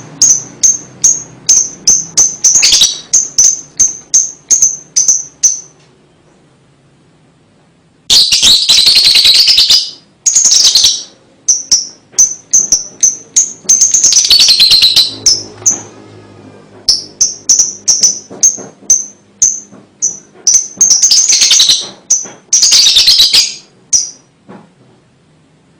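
Lovebird calling: runs of short, high chirps at about three a second, broken by several dense, harsh chattering bursts a second or two long, the kind of long chatter keepers call 'ngekek'.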